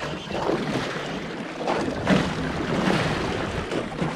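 Wind on the microphone over water sloshing against a small fishing boat's hull, an uneven rushing noise with no steady tone.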